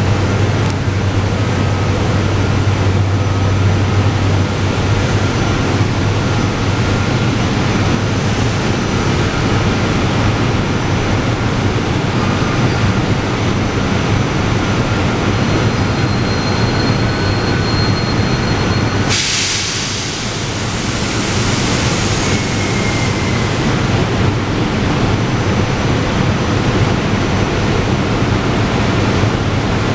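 SEPTA Regional Rail electric commuter train running at the platform, a steady rumble with a low hum. About two-thirds of the way through a sudden hiss sets in and fades over a few seconds.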